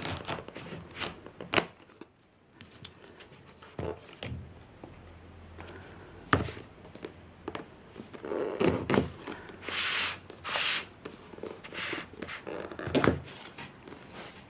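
Handling noise of a smartphone's retail box being opened: scattered taps and light knocks, with a few seconds of rustling and sliding of the packaging a little past the middle.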